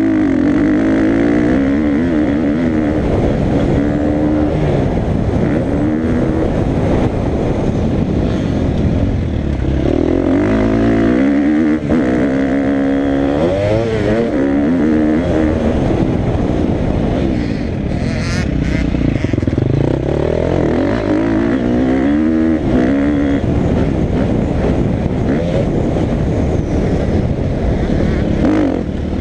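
Motocross dirt bike engine at full load around a track, its pitch rising and falling over and over as the throttle opens and closes and the gears change.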